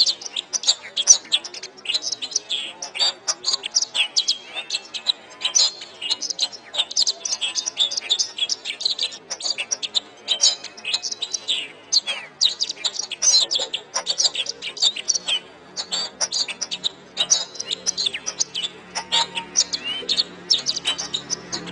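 Domestic canary singing a long, fast, unbroken song of rapid chirps, trills and short whistles. A low, steady background tone comes in during the last few seconds.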